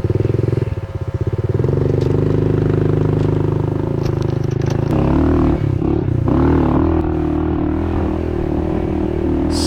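Honda CRF110F pit bike's small single-cylinder four-stroke engine running at steady revs. The note dips briefly about a second in and shifts to a wavering pitch around five seconds in, with some scraping and clattering.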